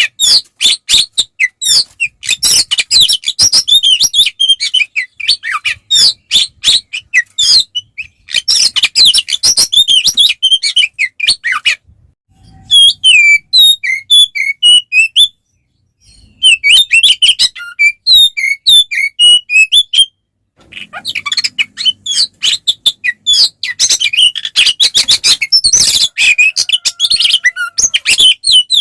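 Oriental magpie-robin (kacer) singing loud, fast, continuous song of rapid chirps, trills and whistles, the excited fighting song used to provoke rival males, with a few brief pauses near the middle.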